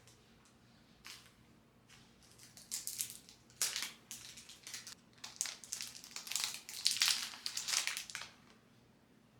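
Irregular crunching and crinkling, as of something being crushed or crumpled by hand. It comes in quick uneven bursts from about a second in and is busiest from about two and a half to eight seconds, then stops.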